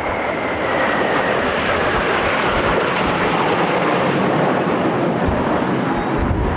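Jet noise from a Blue Impulse Kawasaki T-4 with its twin turbofans flying past, a whine sliding slowly down in pitch as it passes. Wind buffets the microphone with a heavy low rumble near the end.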